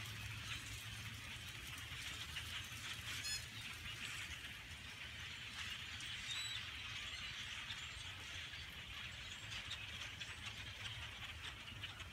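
A huge flock of migrating birds calling all at once: a dense, continuous din of overlapping chirps, with a steady low hum underneath.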